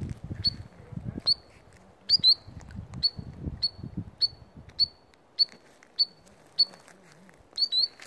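A small shorebird calling short, sharp, high single notes about every half second, twice as a quick double note. A low rumble on the microphone runs under the first five seconds.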